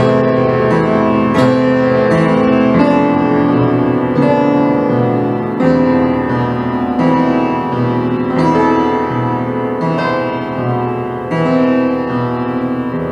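Instrumental music: a piano-like keyboard playing sustained chords, a new chord struck about every second and a half.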